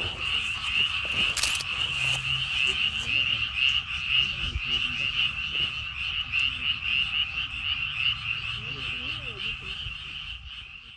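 A dense chorus of many frogs calling steadily, which fades out near the end, with one sharp click about a second and a half in.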